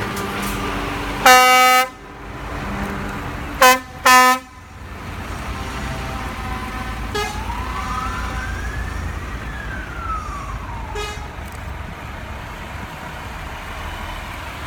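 Truck air horns sounding: one loud blast about a second and a half in, then two short blasts around four seconds. A single siren-like tone then slowly rises and falls, all over the steady low running of idling truck engines.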